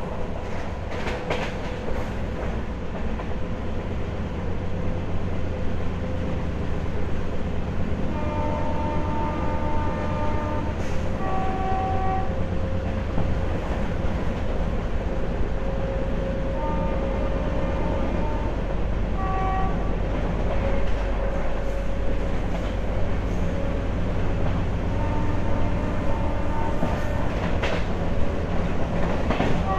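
Indian Railways passenger train running at speed: a steady rumble of wheels on the track. Near the middle, the train's horn sounds in several blasts of a second or two each.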